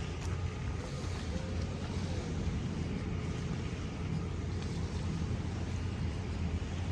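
Steady low drone of a boat's engine on the river, with wind noise on the microphone.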